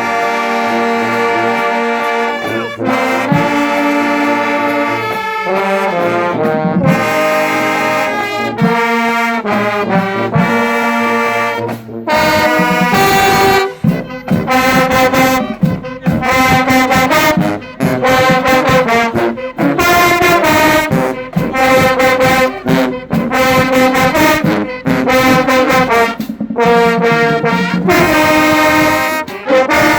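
Marching band's brass section playing, trombones and trumpets to the fore. Held chords for the first dozen seconds, then the music changes to short, punchy repeated chords with brief breaks between them.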